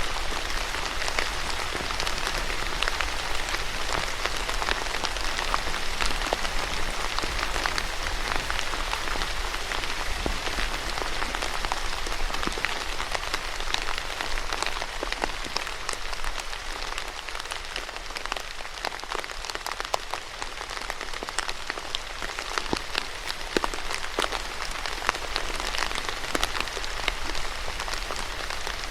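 Steady rain falling on a surface, an even hiss dotted with many sharp individual drop splats.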